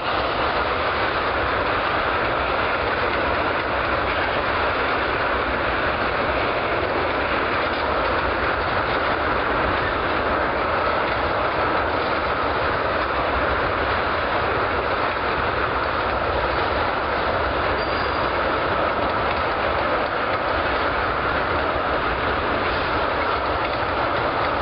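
Freight train's tank cars rolling past, a steady noise of steel wheels on rail that holds at an even level throughout.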